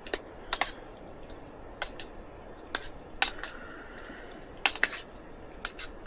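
A pot of pasta sauce with little smokie sausages cooking: about a dozen sharp clicks and light clinks at uneven spacing.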